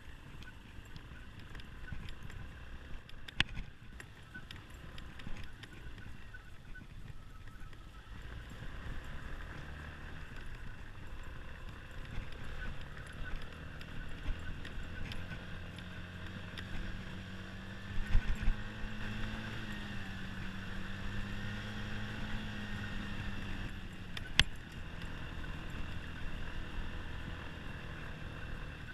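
Honda SH150i scooter's single-cylinder engine running on the move; partway through, its pitch rises and holds for several seconds before easing off. A few sharp knocks stand out over it.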